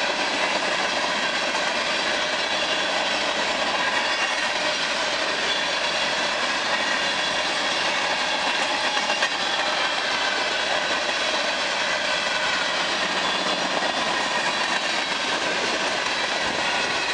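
Freight train of covered hopper cars rolling steadily past, its steel wheels running on the rails in a continuous, even noise.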